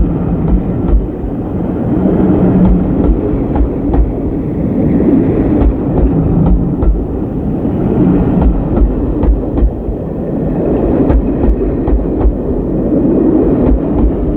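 Steam-hauled train running by: a continuous heavy rumble with frequent sharp clicks of wheels over rail joints.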